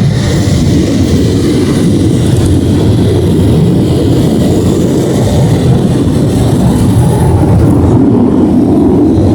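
Automatic car wash air dryers blowing on the car, heard from inside the cabin: a loud, steady rush of air.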